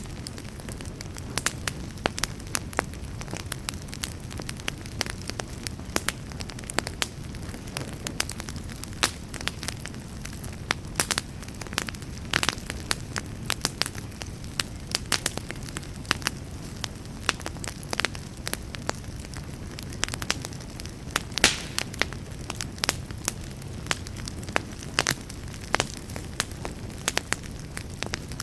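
Wood campfire crackling, with frequent irregular pops and snaps over a steady low rush.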